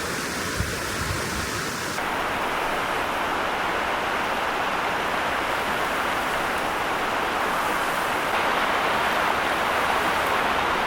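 Steady rushing noise of a heavy snowstorm: wind with wet snow falling. There are a couple of faint low thumps in the first two seconds.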